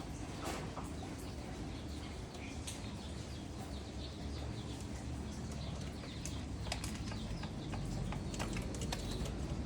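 Pigeons flapping their wings, with scattered short taps and scuffles over a steady low hum.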